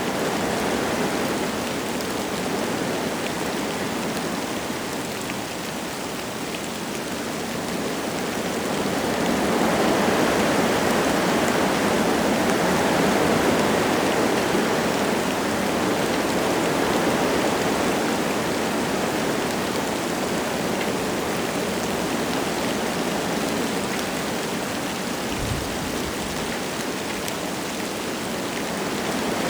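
Wind rushing through forest trees with light rain falling, a steady hiss that swells with a stronger gust about a third of the way in and slowly eases.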